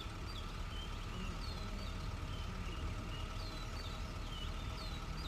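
Safari vehicle's engine idling with a steady low rumble, while birds repeat short, high chirps.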